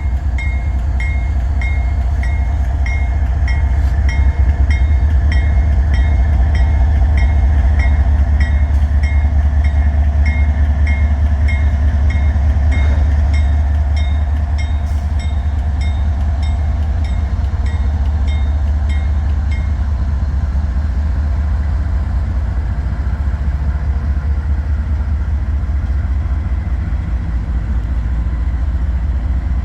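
Diesel freight train pulling out, its GE diesel locomotives giving a steady deep engine rumble. A metallic ding repeats about every 0.6 seconds and stops about 20 seconds in.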